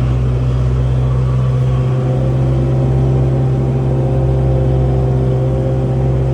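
Tractor engine running steadily with a constant low drone.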